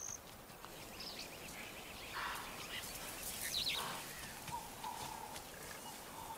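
Faint wild ambience with scattered bird calls: a few short high chirps and a longer held note in the second half.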